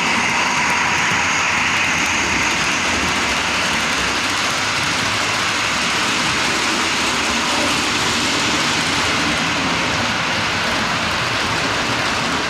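HO-scale model train running on the layout track, a steady unbroken rolling and motor noise.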